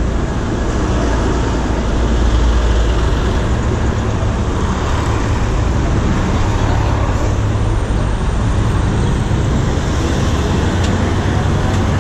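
Steady, loud city traffic noise and road rumble, heard from a bike riding through busy streets.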